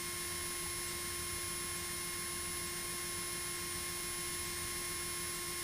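Steady electrical hum and hiss on the aircraft intercom audio line, with a few fixed tones and a faint high whine that dips briefly about once a second.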